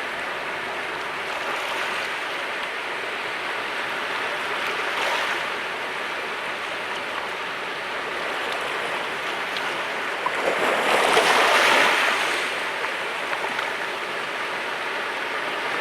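Sea waves washing on a rocky Mediterranean shore: a steady wash of surf, with one larger wave breaking and hissing in about ten seconds in.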